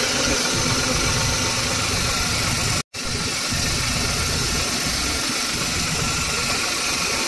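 Renault Kwid 800cc three-cylinder petrol engine idling steadily, just restarted after its tappet cover gasket and spark plugs were replaced. The sound cuts out completely for a moment about three seconds in.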